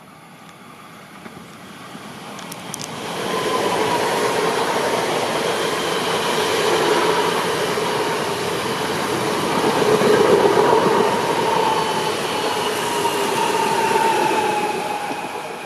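Red regional electric multiple unit passing close by at speed: a rushing rumble of wheels on rail with a steady whine over it. It builds in over the first few seconds and fades away near the end.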